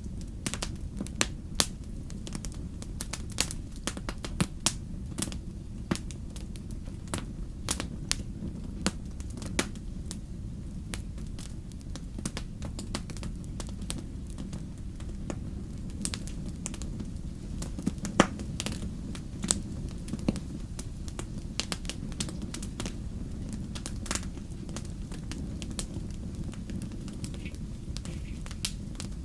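Wood fire in a fireplace crackling and popping: many sharp, irregular pops over a steady low rumble of the flames, with one louder pop about 18 seconds in.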